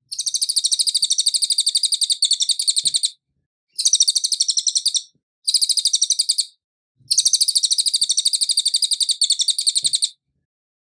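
Cililin songbird singing in four bursts of rapid, high, evenly repeated chirping notes, about ten a second, with short pauses between the bursts.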